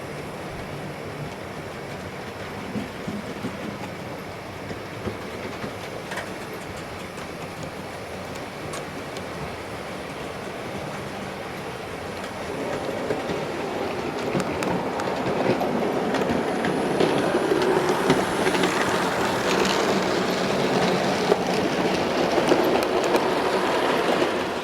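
Model train running along the track: a steady rolling rumble with rapid wheel clicks over the rail joints. It grows louder about halfway through as the train comes closer.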